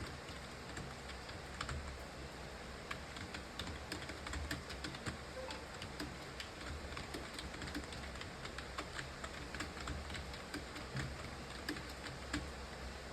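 Computer keyboard being typed on continuously: uneven keystroke clicks, several a second, over a low steady hum.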